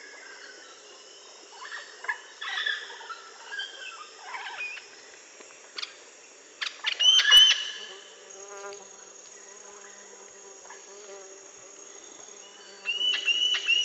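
Birds chirping and calling in sharp, scattered notes, loudest about halfway through, then a fast run of repeated calls near the end, over a steady high-pitched insect drone.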